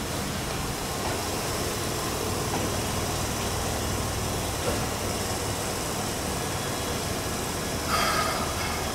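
Keikyu electric train at a station platform, a steady running noise, with a short high squeal about eight seconds in.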